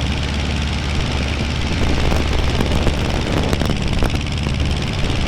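Aeronca 7AC Champ's engine and propeller droning steadily at climb power after takeoff, heard from inside the cockpit, with a few faint clicks.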